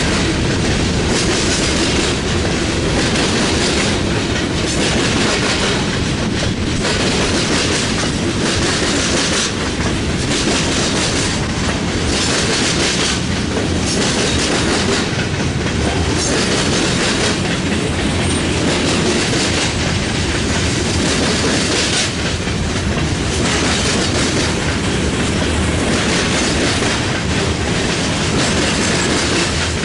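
CSX mixed freight train's cars rolling past on steel rails, a loud steady rumble and clatter that swells and dips every second or two as car after car goes by.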